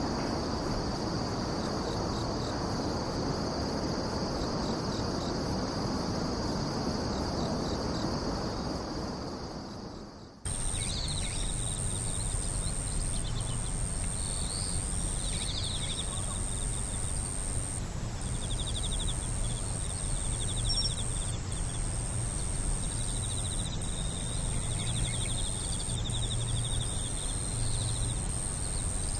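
Insects singing, crickets among them: a steady high trill over a low rushing background, then, after an abrupt change about ten seconds in, a continuous very high buzz with trains of rapid pulsed chirps beneath it.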